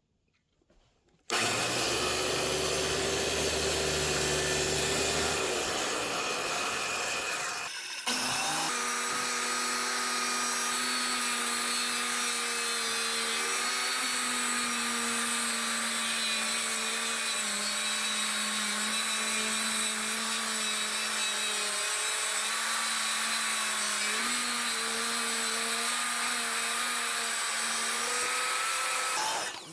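An electric power tool running in two long runs, the first about seven seconds and the second about twenty. The motor's pitch wavers slightly as the load changes.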